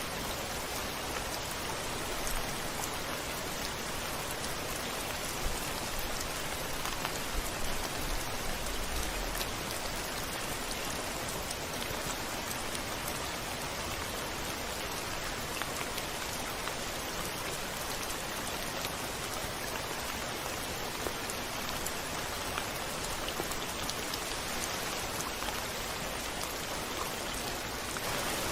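Steady rain falling on a window, an even hiss with scattered individual drop taps.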